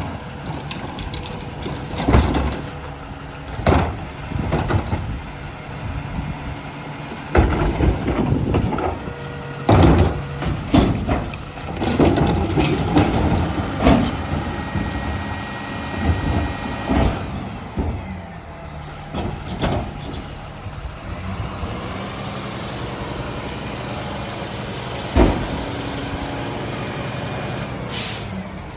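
Mack rear-loader garbage truck at work: its diesel engine runs while repeated clanks and bangs of metal ring out as refuse is loaded, thinning to a steadier run later on with one more bang. A short hiss of air comes near the end.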